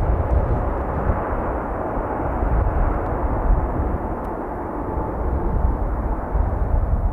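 Boeing 737 MAX 8 jet engines making a steady rushing noise, with gusty wind rumbling on the microphone.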